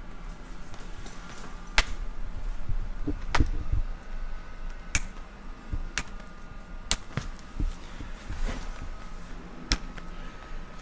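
Sharp single clicks and knocks, about eight of them spaced irregularly a second or so apart, over a faint steady hum.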